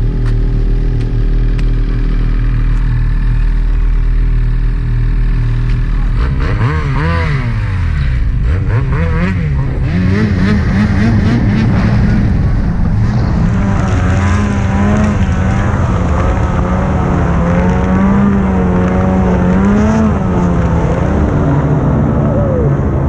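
Snowmobile engine running steadily at low revs, then revving up and down from about six seconds in. From about ten seconds it settles into a higher, steady pitch that wavers with the throttle as the machine rides on.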